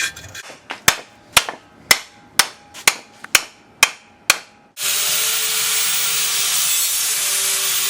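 A hammer striking metal about eight times, roughly twice a second, with a slight ring after each blow, while a bracket is being made. About halfway through, a steady loud hissing noise from a shop tool starts and keeps going.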